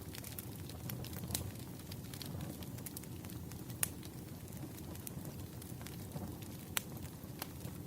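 Campfire burning: a steady low rush of flames with scattered sharp crackles and pops from the burning wood, the sharpest pops about a second and a half in, near four seconds and near seven seconds.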